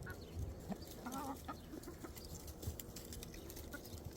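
Chickens clucking softly while feeding, with a couple of short clucks near the start and about a second in, and faint scattered ticks.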